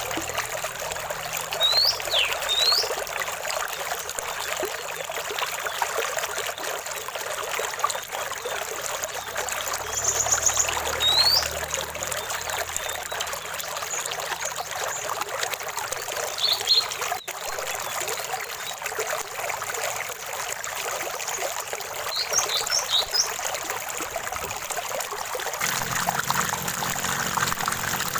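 Running water of a small stream trickling steadily, with a few short high bird chirps scattered through: two quick rising notes near the start, another around the middle, and a cluster of quick notes later on.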